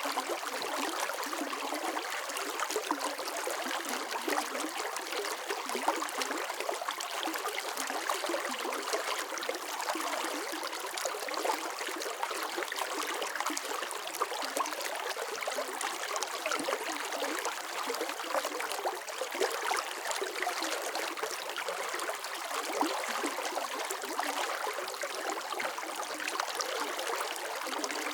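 Water running steadily in a stream, an even splashing and trickling wash with no low rumble.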